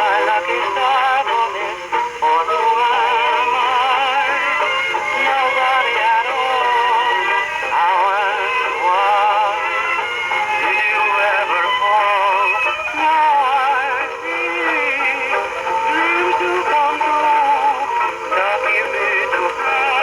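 A slightly worn 78 rpm record with a singing voice, played acoustically on a Victor Type III horn gramophone through a rebuilt Exhibition reproducer. Thin, mid-range sound with no deep bass, and surface hiss under the music.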